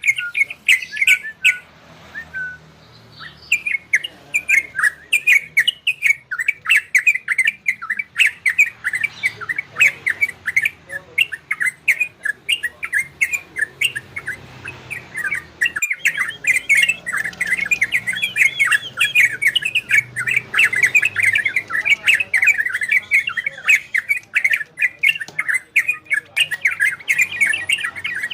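A songbird singing a rapid, run-on chattering song of quick chirps and trills, the 'trocokan ropel' style of kicau song, with a short lull about two seconds in.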